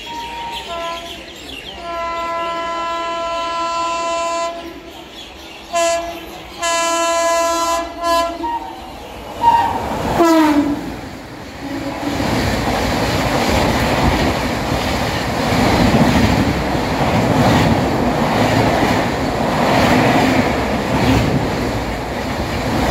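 WAP-7 electric locomotive's horn sounding a series of blasts as the express approaches at speed, the longest about two and a half seconds, with the pitch dropping as the locomotive passes about ten seconds in. Then the coaches rush past at about 130 km/h with a loud, steady rumble and wheel clatter.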